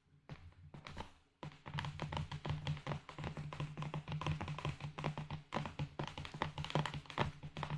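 Rapid, dense tapping and clicking on an object, close up, over a steady low hum. It begins with a few separate taps and becomes a continuous quick patter from about a second and a half in.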